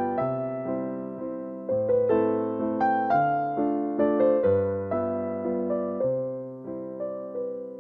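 Background music: a gentle piano or electric-piano melody, notes struck one after another and fading, over slow-changing bass notes.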